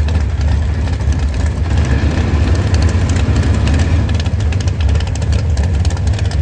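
Drag-race cars, a Camaro and a Vega, idling loudly at the starting line with a deep, choppy engine rumble.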